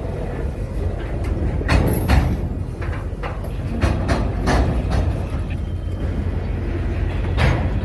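Freight train of flatcars carrying tank containers rolling past, a steady low rumble with irregular sharp clanks from the wheels and cars.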